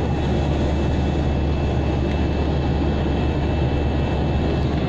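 Airliner cabin noise in flight: a steady, even rumble of engines and airflow heard from inside the cabin, with a faint steady whine above it.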